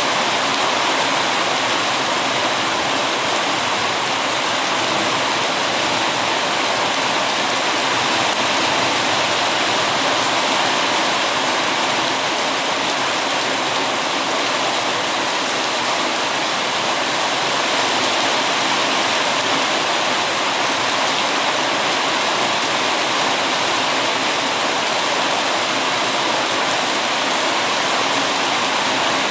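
Heavy rain falling steadily, an even rushing hiss that never lets up.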